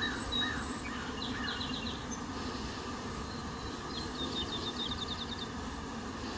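Steady hum of honeybees flying around the hives, with small birds chirping: a few short swooping notes at the start and two quick trills, one about a second in and a longer one past the middle.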